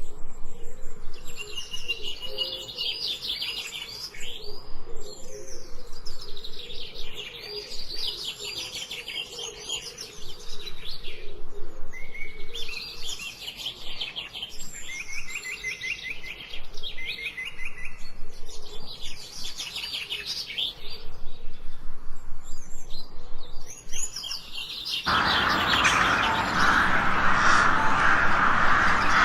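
Small songbirds chirping and singing in quick repeated trills, several birds calling over one another. About four seconds before the end, this cuts suddenly to a louder, dense, rushing sound.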